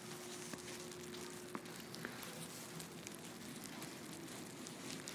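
Steady hiss of blowing snow in a blizzard, with faint scattered ticks of snow or ice grains striking.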